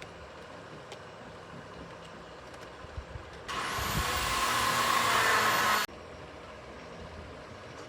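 A compressed-air blow gun fires a loud hiss of rushing air for about two and a half seconds, starting about three and a half seconds in and cutting off suddenly. A faint steady background hum runs under it.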